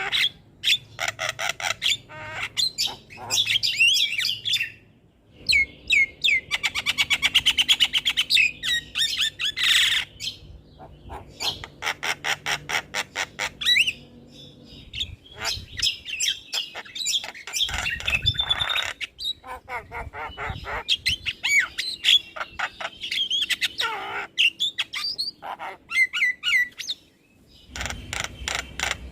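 Javan myna singing a varied song: rapid trains of clicks, harsh squawks and a buzzy rattle, with whistled notes that slide up and down, broken by a couple of short pauses.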